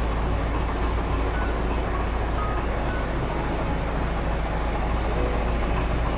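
Steady low rumble and hiss of a moving vehicle, heard from inside.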